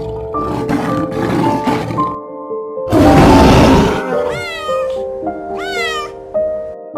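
Over background music of steady melodic notes, a loud, rough lion roar lasts about a second, starting about three seconds in, followed by two high, curving kitten meows.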